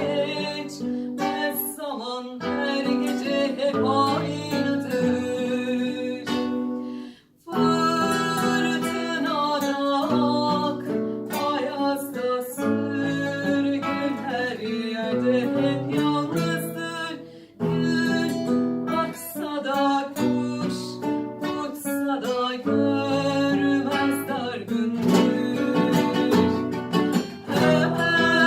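Acoustic guitar playing, strummed and picked, stopping briefly about seven seconds in and again about seventeen and a half seconds in.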